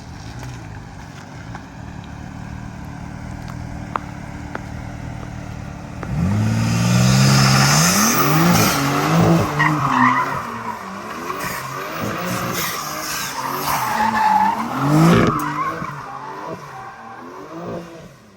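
BMW G80 M3's twin-turbo inline-six running low and steady. About six seconds in it revs hard, climbing and dropping in repeated pulls while the rear tyres squeal and skid through donuts. The revving and tyre noise die away near the end.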